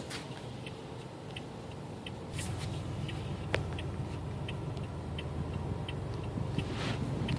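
City street traffic: a low vehicle rumble builds from about two seconds in, over small, sharp ticks repeating roughly twice a second.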